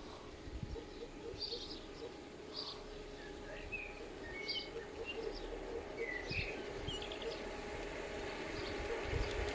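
Small birds chirping and singing outdoors. Under them, a faint steady hum and a run of light clicks from a G-scale model train grow louder toward the end as it approaches.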